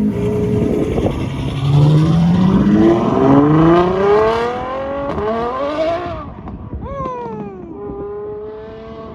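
Ferrari F12's V12 engine accelerating hard away, its note climbing steeply through the gears with a few quick upshifts, then holding steadier and fading as the car pulls into the distance.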